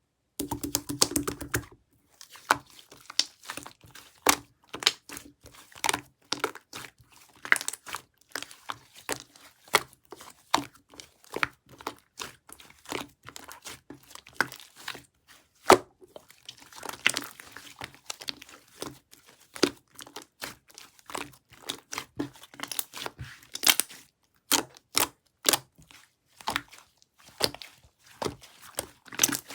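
Hands squishing, folding and stretching an opaque chocolate-pudding-textured slime, giving irregular crisp pops and sticky clicks, a few of them loud.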